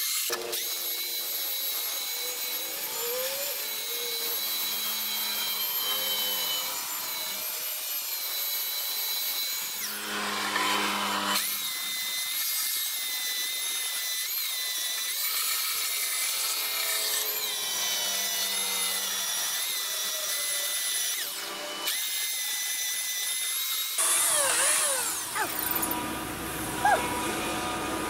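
Handheld electric power tool whining steadily as it grinds down glued plywood to flatten the edges and strip off glue; its pitch dips now and then under load. Near the end the sound turns rougher and louder.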